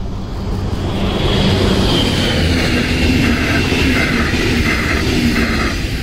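DB class 245 diesel locomotive and double-deck coaches passing close by: engine running and wheels on the rails, growing loud about a second in. In the second half there is a steady series of clatters as the coach bogies pass over the track.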